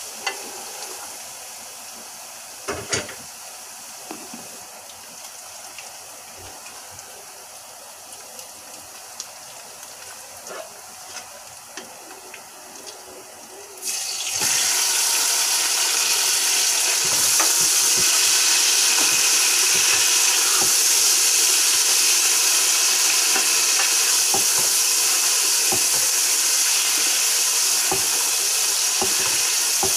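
Chopped onion frying gently in oil in an aluminium pot, with a wooden spoon scraping and knocking against the metal. About halfway through, raw meat goes into the hot oil and a loud, steady sizzle starts at once and keeps on as the meat is stirred.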